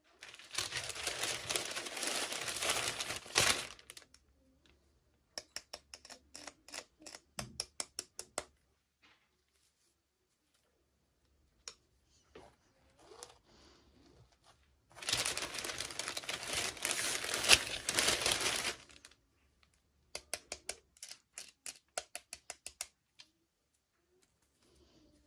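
Packaging being handled in a toy unboxing: two spells of crinkling and tearing, each followed by a run of quick sharp clicks.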